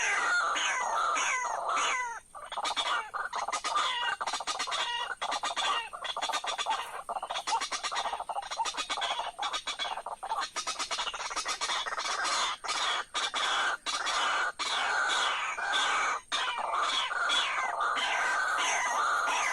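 White-breasted waterhen calling: a fast, repeated series of harsh croaking notes, each falling in pitch, a few a second, with a more ragged, clicking stretch in the middle.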